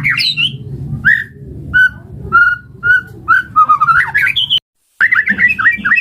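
White-rumped shama (murai batu) singing a run of clear whistled notes, some repeated on one pitch and some rising slurs. The song breaks off for a moment of dead silence about three-quarters of the way through, then resumes with quicker notes.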